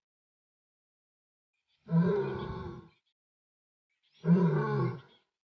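Young male lion calling twice, each call about a second long with a slight drop in pitch: contact calls for his mother.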